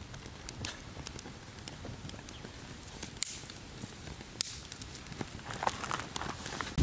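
Firewood burning in a campfire stand, crackling with scattered sharp pops and snaps over a faint hiss, two louder pops in the middle.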